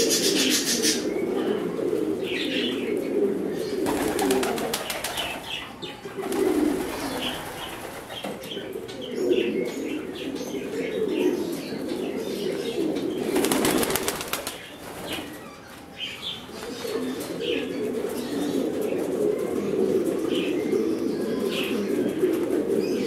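A loft full of domestic pigeons cooing continuously, with wings flapping loudly in short bursts three times.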